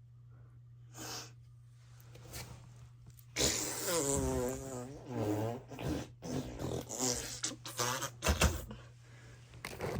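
A run of loud, buzzy fart noises starting about three and a half seconds in, some drawn out and wavering in pitch, with short breaks between them.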